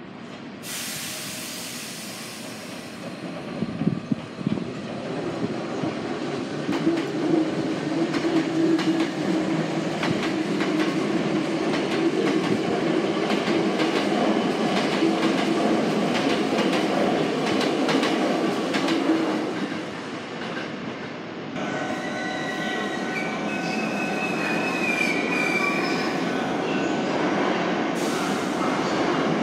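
Hankyu 7000-series electric train running through a station, its wheels clattering on the rails with a steady rumble that builds and then fades. Then a Sanyo 3000-series electric train pulls into an underground platform, with high steady whining and squealing tones over the running noise.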